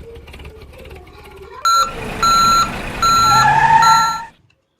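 A truck's reversing alarm beeps four times, evenly spaced, over the sound of a running truck engine. Before it there is a low mechanical rumble with fast ticking.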